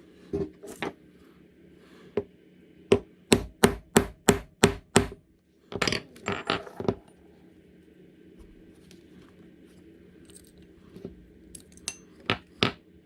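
Mallet knocks on a leather-working tool: a couple of single strikes, then a quick even run of about seven strikes, a few more a second later, and two near the end.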